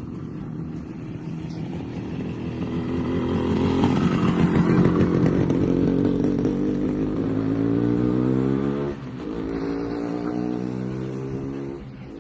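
Motorcycle engine pulling under throttle, loudest midway. Its pitch climbs for a couple of seconds, drops abruptly about nine seconds in, then runs steady.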